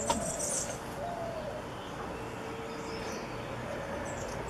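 Birds calling: soft, low cooing notes repeating about once a second, some falling slightly in pitch, with a few faint high, thin chirps.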